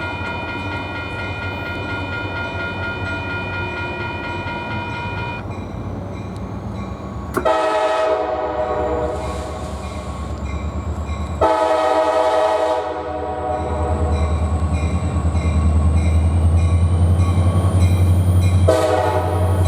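A grade-crossing warning bell rings steadily and stops about five seconds in. Then the air horn of the NYSW's EMD SD40-2 locomotive 3024 blows long blasts, two in a row and another starting near the end. Its diesel engine rumble grows louder as it approaches.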